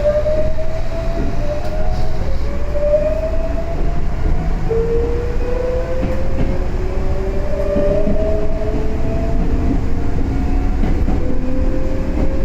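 Onboard running sound of a Yoro Railway 7700 series electric train (ex-Tokyu 7700). Its inverter-driven traction motors whine in tones that rise in pitch, drop back and rise again in repeated steps as the train accelerates, over a steady low rumble of wheels on rail.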